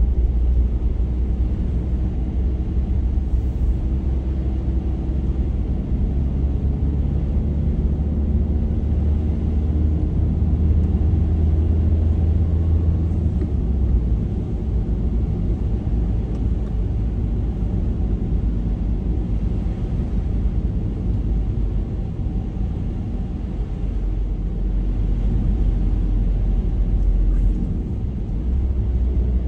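Car being driven at a steady pace: an even, low rumble of engine and tyres on the road, with a faint engine drone above it.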